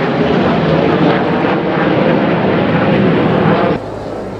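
Red Arrows' BAE Hawk jet trainers passing close by, a loud rushing jet noise that cuts off abruptly near the end.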